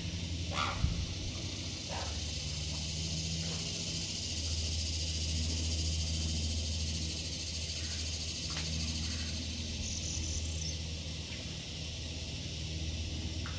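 Forest birdsong ambience: a few short, scattered bird chirps and a brief high call over a steady high hiss and a low rumble.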